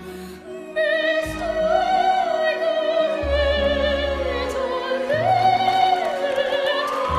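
A 10-year-old girl singing an operatic aria in a soprano voice with vibrato, over orchestral accompaniment. She grows louder about a second in and climbs to a higher note near the end.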